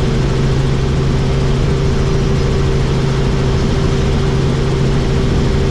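Helicopter in flight heard from on board with the doors off: a steady drone of engine and rotor with a constant rush of air noise.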